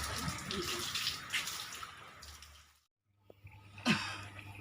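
Water splashing and sloshing that fades away, then after a brief break a single sharp knock near the end.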